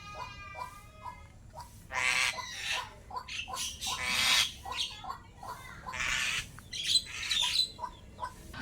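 Pet starling (jalak) calling: a quick run of short whistled and clicking notes, then harsh squawks about two seconds in, repeated three more times with chattering between.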